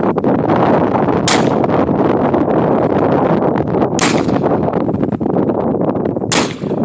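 Strong wind buffeting the microphone, with three sharp .308 rifle shots about a second, four seconds and six seconds in.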